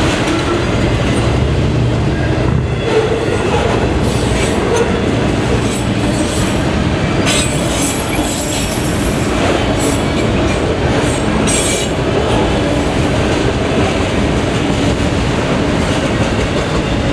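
Freight train cars rolling past close by: a steady rumble of wheels on rail, with brief high wheel squeals in the middle.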